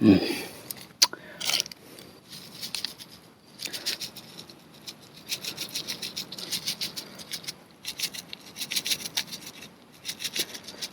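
Quick, repeated rubbing and scraping strokes in bursts, about five or six a second, as seasoning sauce is spread over an ear of corn, with a few sharp knocks near the start.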